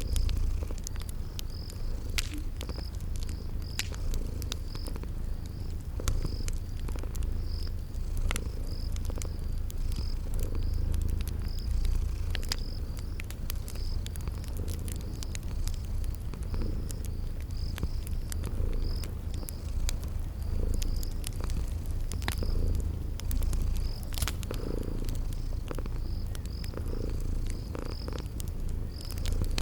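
A cat purring in a steady low rumble, with a cricket chirping evenly throughout and the scattered pops and snaps of a crackling wood fire.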